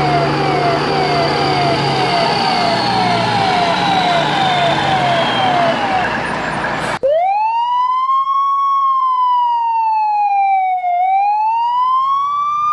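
Police siren in a fast yelping pattern, about two falling sweeps a second, over engine noise and a low hum. About seven seconds in it cuts abruptly to a clean, slow wailing siren tone that rises, falls, then rises again.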